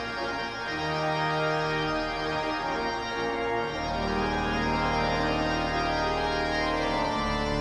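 Pipe organ playing sustained full chords, with deep pedal bass notes coming in about four seconds in.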